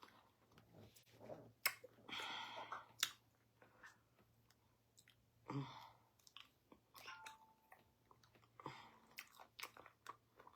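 Close-miked chewing of pounded yam and ogbono soup: soft, wet mouth sounds with scattered sharp clicks and smacks at an irregular pace.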